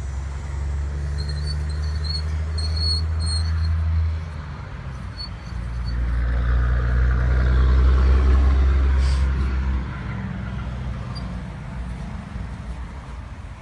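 A motor vehicle's low engine drone, growing louder as it passes and loudest about eight seconds in, then fading.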